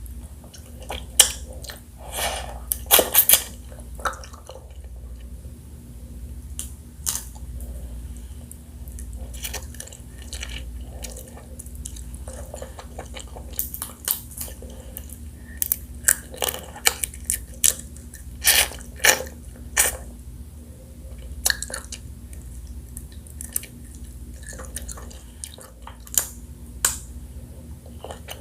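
Close-miked eating of pickled blue crab with roe: wet chewing, sucking and irregular sharp crunchy clicks, over a low steady hum.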